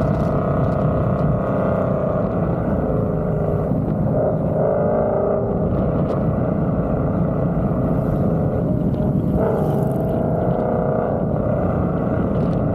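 Ford Coyote 5.0 V8 running through aftermarket headers and exhaust, a steady drone as at a cruise, its pitch shifting a little a couple of times.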